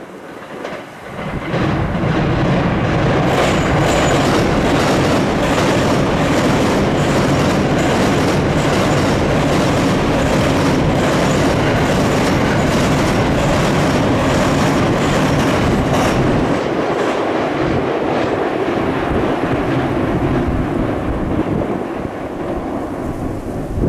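15-car JR E231-series electric commuter train passing on a steel girder bridge: a loud, steady rumble with rapid, regular wheel clatter over the rail joints. The clatter thins out about 16 seconds in, leaving a lower rumble as the last cars go by.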